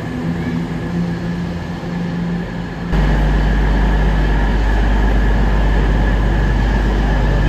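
A train running at a station platform, with a steady mechanical hum and rumble. About three seconds in there is an abrupt cut to a louder, deeper steady rumble with a constant hum over it.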